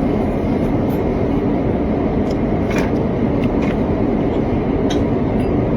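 Steady roar of an airliner cabin in flight, engine and airflow noise, with a few faint clicks on top.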